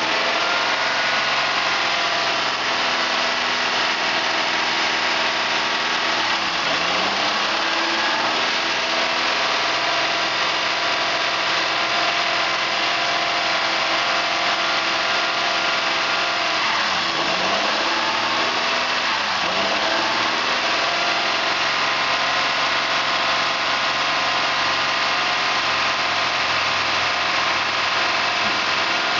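2000 Honda Odyssey's 3.5-litre V6 engine running steadily near idle on a used-engine test, its pitch dipping briefly and recovering a few times.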